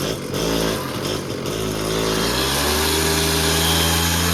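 TVS 50 moped's small two-stroke engine running after a one-kick start, revved up: the pitch climbs about two seconds in and then holds at a steady high rev.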